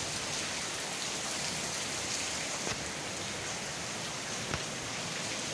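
Steady rain falling, an even hiss, with a couple of louder drop taps partway through.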